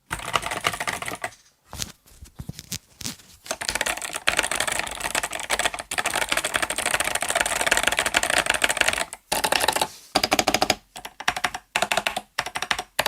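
Typing on the 8BitDo Retro Mechanical Keyboard M Edition's clicky Kailh Box White V2 switches: fast, dense clicking of the keys. It comes in short bursts at first, then runs almost without a break for several seconds, then turns choppy again with brief pauses near the end.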